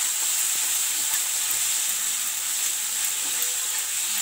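Sliced onions and ginger-garlic paste sizzling steadily in hot oil in an iron kadhai, stirred with a metal spatula.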